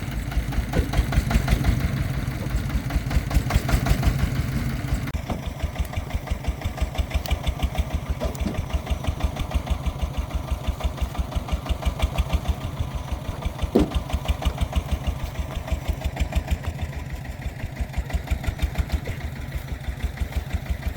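Single-cylinder diesel engine of a công nông farm truck chugging with an even, pulsing beat. About five seconds in it eases to a lighter, quieter beat, and a single sharp knock sounds near the middle.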